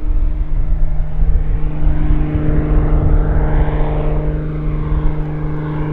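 Beech B36 Bonanza, a single-engine propeller plane, droning steadily as it flies in, over a low rumble.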